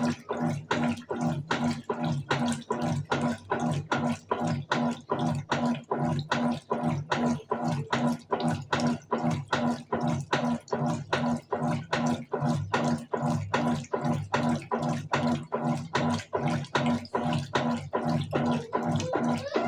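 Colormaq Eco Max 14 kg top-loading washing machine in its wash agitation, sloshing the water and laundry back and forth in a steady rhythm of about two to three swishes a second over the motor's low hum.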